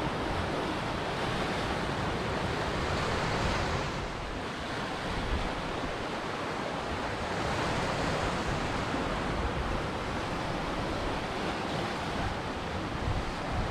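Ocean waves breaking and washing onto a shore, a continuous wash of surf that eases slightly partway through and swells again.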